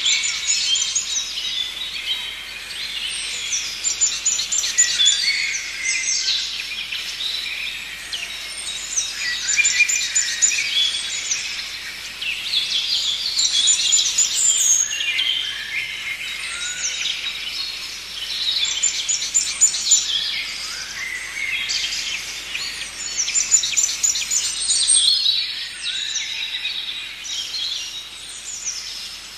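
Several songbirds singing and chirping at once, with runs of fast, high trills coming back every few seconds over a faint steady hiss.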